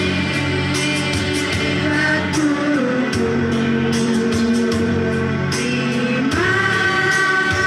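Children's choir singing to instrumental accompaniment, holding long notes, with the melody stepping up in pitch about six seconds in.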